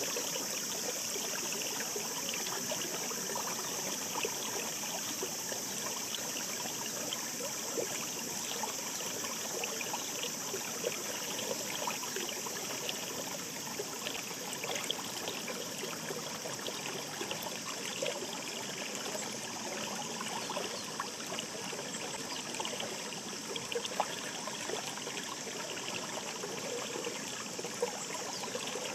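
Shallow mountain stream babbling over stones: a steady rush of water dotted with many small splashes and gurgles.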